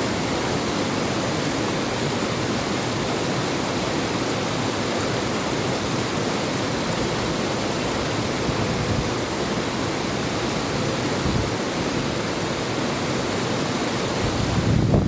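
River water rushing steadily, swelling briefly in the low end just before it cuts off.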